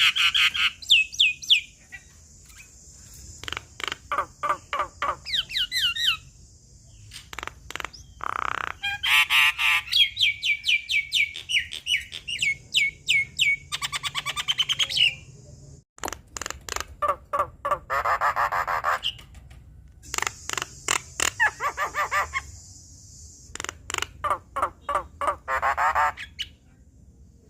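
Javan myna (jalak kebo) calling in full voice: bursts of rapid clicking notes and harsh chattering runs, some sliding down in pitch, broken by short pauses.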